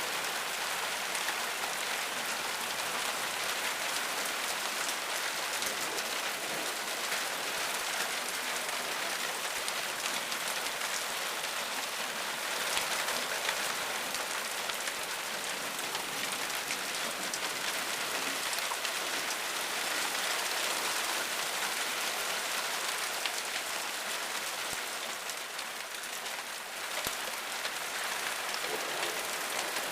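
Heavy rain coming down steadily, with a slight lull about 25 seconds in.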